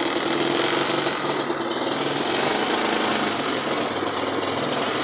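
Motorcycle engine held revved by hand on the throttle, running rough and misfiring with popping explosions; it will not hold an idle on its own, which the mechanic puts down to a dirty carburetor after stale fuel.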